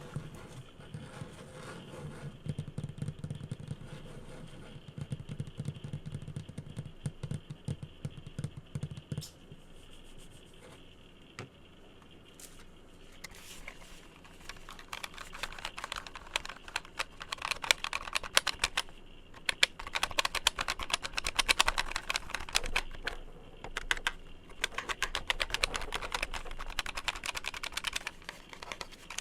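Fingertips tapping and scratching rapidly on assorted objects, close to the microphone. For the first third the taps are dull and low, then after a brief lull they turn to fast, crisp clicking that sounds like typing.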